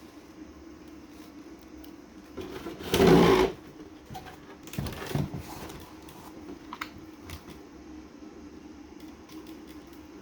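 An RC car being switched on by hand, with clicks and handling noise. There is a loud, brief burst of noise about three seconds in and a weaker one about two seconds later, over a steady low hum.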